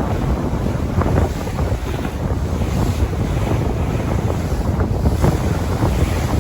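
Surf washing onto a beach, with wind buffeting the microphone in a steady low rumble.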